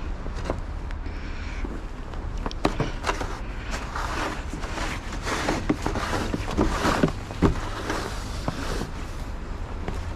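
Footsteps crunching through snow, irregular and heaviest in the middle, over a steady low rumble.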